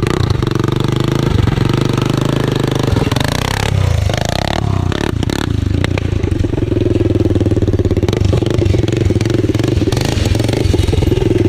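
Honda 400EX quad's single-cylinder four-stroke engine running loudly through a custom muffler exhaust, its pitch dropping and climbing again about four seconds in as the throttle changes.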